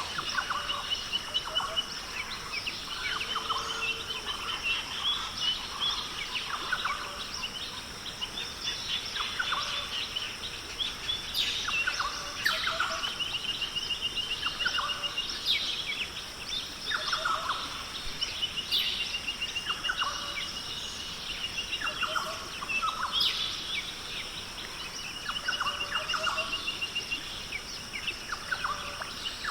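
Several birds calling: a short, rapid trill repeats every few seconds among scattered brief chirps, over a steady high hiss.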